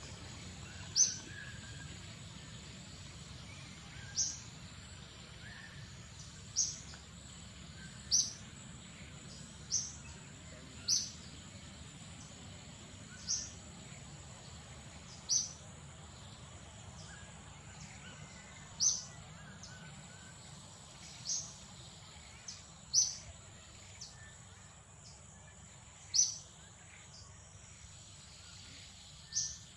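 A bird's short, high chirps, repeated about every one to three seconds, over a steady high-pitched insect drone.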